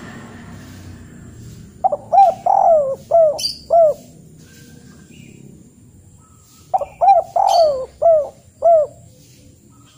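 A bird calling: two phrases of about five short notes each, each note rising and falling in pitch, the phrases about five seconds apart.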